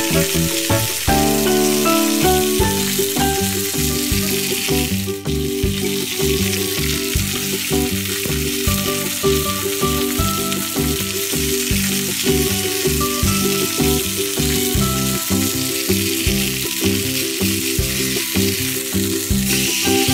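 Beef sizzling steadily as it sears and fries, a continuous crackling hiss, under background music with a regular beat.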